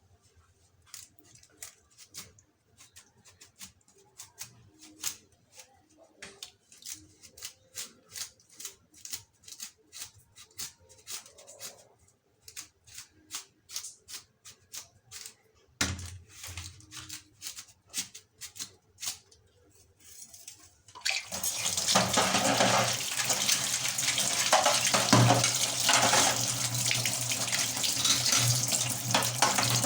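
A long run of quick, sharp clicks and light knocks, then a water tap turned on and running steadily into a sink. This is grill skewers being taken apart and washed.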